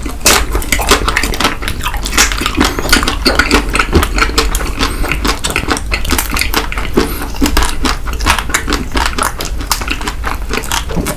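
Two people biting into and chewing chocolate candy bars close to the microphone: a dense run of many small crunching clicks, several a second.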